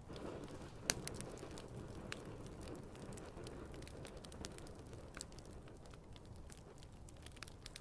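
Wood fire burning with scattered crackles over a soft rush of flame, and one sharp pop about a second in.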